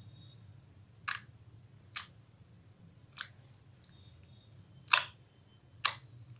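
Five short, sharp clicks, spaced unevenly about a second apart; the two near the end are the loudest.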